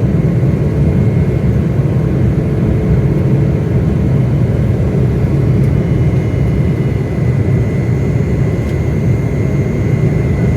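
Airliner climbing out after takeoff, heard as a loud, steady roar of engines and airflow with a faint high whine held throughout.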